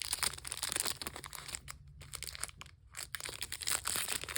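Foil booster pack wrapper crinkling and tearing as it is opened by hand, in two spells of crackling with a short lull between.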